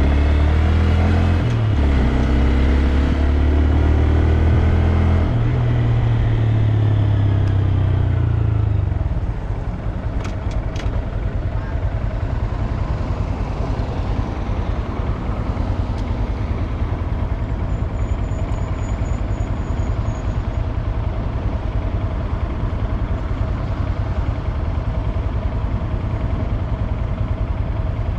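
Honda Grom's small single-cylinder engine running under way, its pitch rising and falling with throttle and gear changes for about the first nine seconds, then settling into a steadier, noisier drone.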